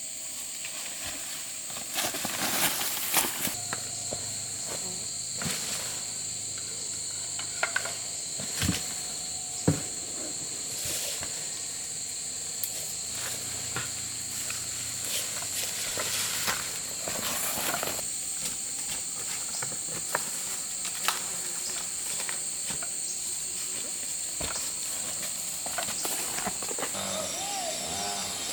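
Insects buzzing in a steady high-pitched drone, with scattered sharp clicks and snaps over it.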